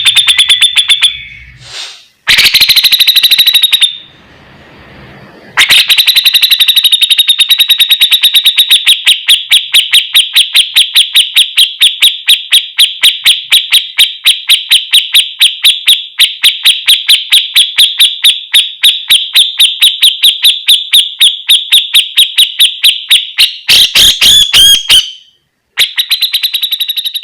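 Cucak jenggot (grey-cheeked bulbul) singing its rapid 'besetan' chatter: a few short harsh bursts, then a long, steady rattle of quick, evenly repeated notes lasting about a quarter of a minute, and a last short burst near the end.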